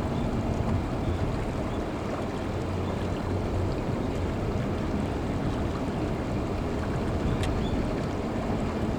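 Steady wind and low background rumble over open water, with a faint steady hum. There is one faint click about seven and a half seconds in.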